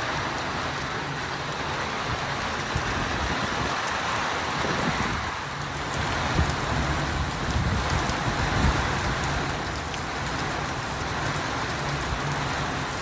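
Heavy rain pouring down steadily, with a gusty low rumble swelling and easing about halfway through.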